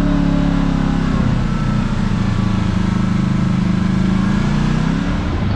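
Kawasaki KRX side-by-side's parallel-twin engine running under way on a trail. Its pitch drops about a second in, then wavers up and down with the throttle.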